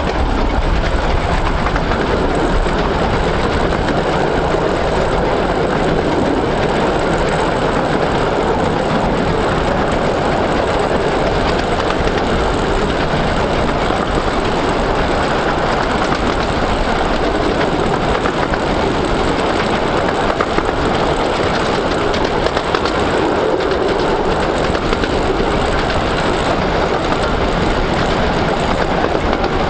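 A 15-inch gauge miniature railway train running along the line: a steady, even rumble of wheels on rails.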